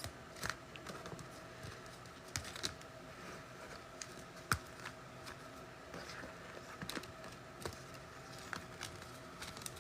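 Faint, irregular clicks and light taps, a few seconds apart, the sharpest about halfway through, over a faint steady hum.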